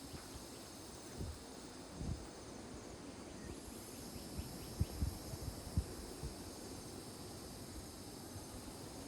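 Evening chorus of insects such as crickets: a steady, high-pitched trilling, with a few dull low thumps of wind on the microphone.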